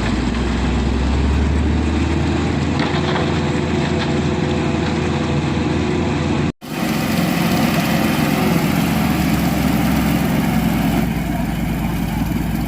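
Heavy diesel engine running steadily at a low idle. The sound drops out for an instant about six and a half seconds in, then carries on.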